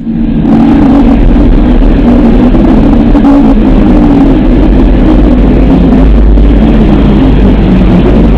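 Space 'sound' of a planet, of the kind made by turning spacecraft radio or plasma-wave recordings into audio: a loud, steady rumbling drone with wavering low tones and a deep hum beneath.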